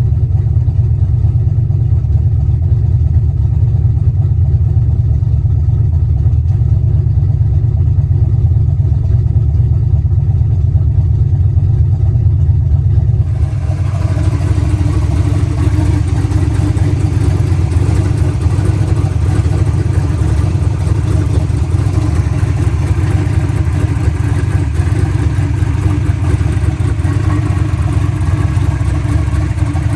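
Turbocharged 383 stroker small-block Ford V8 idling with no throttle, a steady low-pitched idle. About 13 seconds in the sound changes abruptly, with more hissy high-end noise over the same idle.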